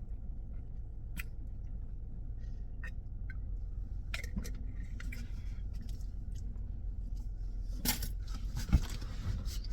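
Steady low rumble of a car heard from inside the cabin, with scattered small clicks and handling noises and a sharp knock near the end.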